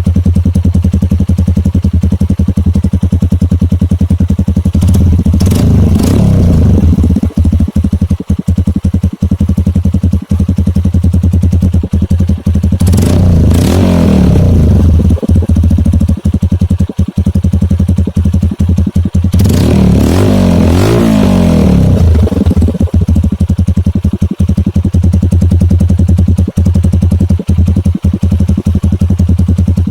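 Kawasaki KLX 150's single-cylinder four-stroke engine idling through a Purbalingga T4 Pro Circuit aftermarket exhaust. It is revved up and let back down three times, about seven seconds apart.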